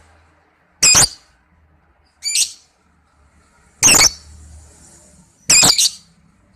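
Lovebird giving short, shrill chirping calls, four in a row spaced a second or so apart, the last one doubled.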